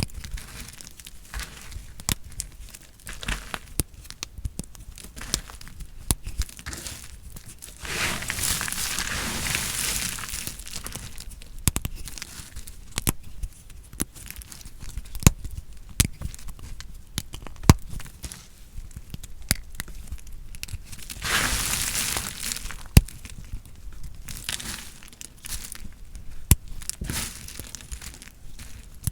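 Knife cutting through bar soap, the soap crunching in a run of sharp cracks and clicks, with two longer slicing passes about eight seconds in and again near twenty-one seconds.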